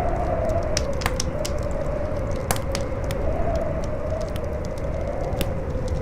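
Campfire crackling, with sharp pops scattered irregularly through, over a strong wind howling in a wavering tone above a deep rumble.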